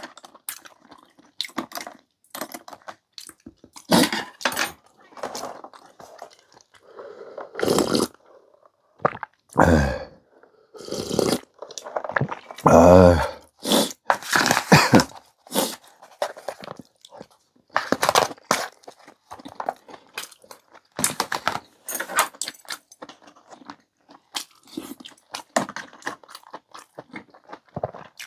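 Close-miked eating: chewing kalguksu noodles and rice, with many short clicks, and two longer, louder mouth sounds about ten and thirteen seconds in.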